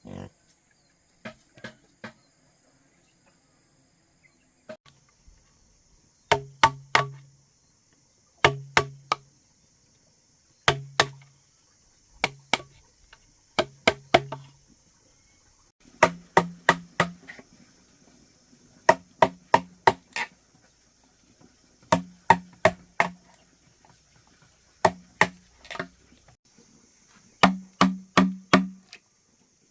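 A hand tool striking wood in quick groups of three or four blows, a group about every two seconds, each blow leaving a short hollow ring, as in chopping or hammering during a build. A steady high insect hiss runs underneath.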